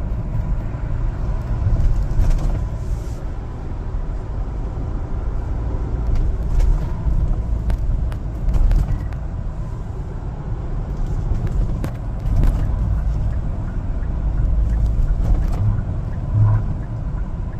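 1-ton LPG cargo truck on the move: a steady low rumble of engine and road noise, with a few faint clicks scattered through it.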